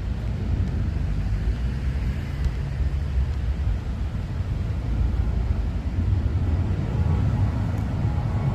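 Steady low rumble of street traffic, growing a little louder in the second half.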